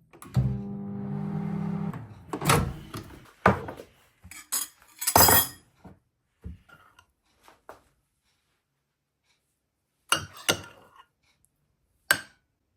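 A steady hum lasting about a second and a half near the start, then a series of separate knocks and clinks, like household objects or dishes being handled and set down, with a quiet gap in the middle.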